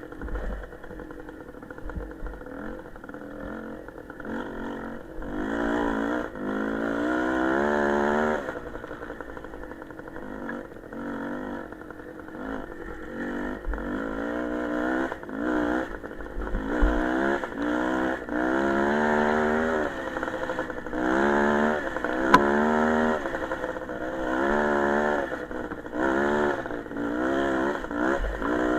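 Small motorcycle engine being ridden hard, its pitch climbing again and again as it accelerates and dropping back between pulls.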